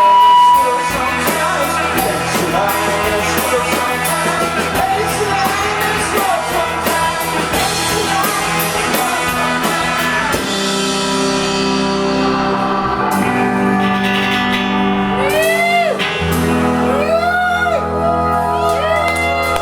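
Rock band playing loud live, with electric guitars, bass and drums. About halfway through the drum hits thin out and held guitar notes ring on. Near the end come repeated swooping pitch bends.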